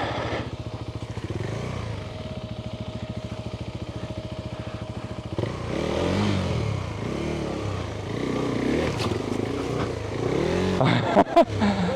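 Adventure motorcycle engine idling with a steady fast pulse, then revved up and down repeatedly from about five seconds in as the throttle is worked on rough ground. A few sharp knocks come near the end.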